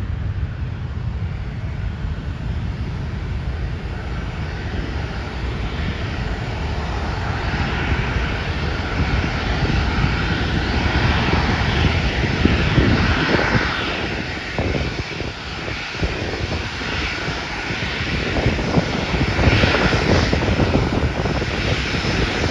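Boeing 787's twin turbofan jet engines at takeoff thrust: a steady jet roar that builds from about a quarter of the way in and swells twice as the airliner passes.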